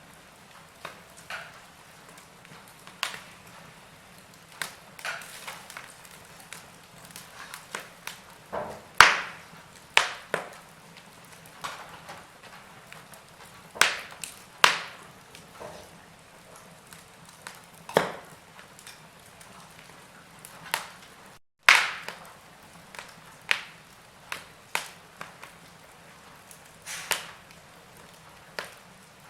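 Log fire crackling: irregular sharp pops and snaps of burning wood, some loud, over a faint steady hiss. The sound cuts out completely for a moment a little past the middle.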